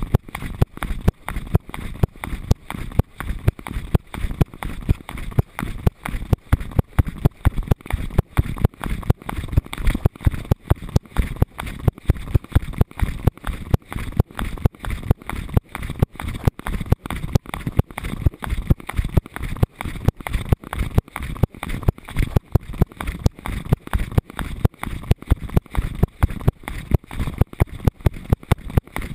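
Harness-mounted GoPro jostled by a dog's running stride: a rhythmic knocking and rubbing of the camera against the harness, about three beats a second, with wind on the microphone.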